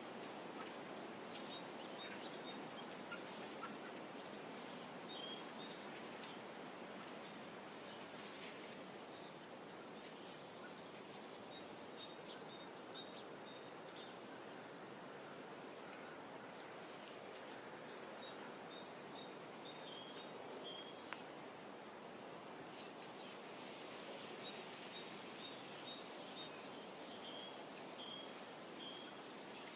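Birds chirping in faint, repeated short high notes, with a rising-and-falling call every couple of seconds, over a steady low hush of outdoor ambience.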